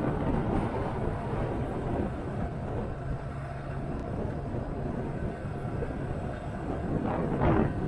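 Motorcycle engine running at steady speed under wind noise on the microphone while riding, with a gust of wind rush swelling near the end.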